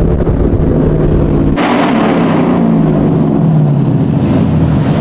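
Car engine revving hard. About a second and a half in the sound changes suddenly, and the engine note then falls away slowly.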